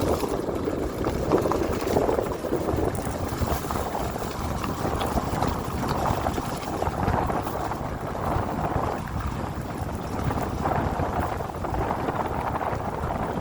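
Steady rushing noise of a dirt bike being ridden: wind buffeting the microphone over the running engine, with small swells in level.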